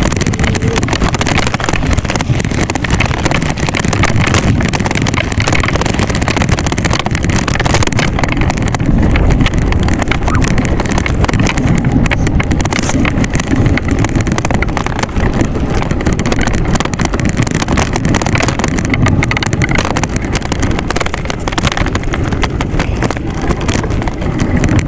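Steady wind buffeting and rolling noise on the camera's microphone while riding a bicycle, a loud, continuous rumble with no pauses.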